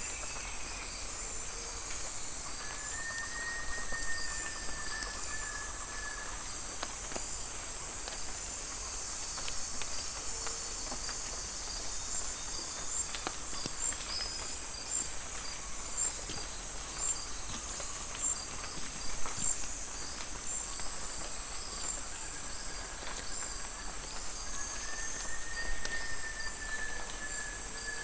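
Rainforest ambience: a steady high-pitched insect chorus of crickets and katydids pulsing evenly, with long whistled calls heard twice, about three seconds in and again near the end.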